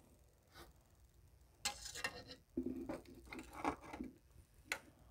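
Faint, irregular scrapes and light taps of a tablespoon scooping baking soda and tipping it into a funnel, with one sharp tap near the end.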